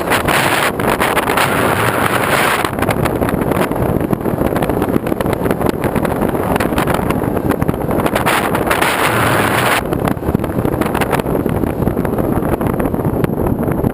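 Loud, steady wind buffeting on the microphone: a rough rumble with constant crackle, the hiss swelling at the start and again about two-thirds of the way through.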